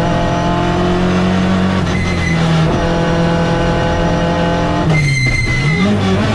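Citroën C2 race car's engine heard from inside the cabin, held at high revs in third gear. About five seconds in the revs drop briefly and climb again, with a high squeal lasting about a second.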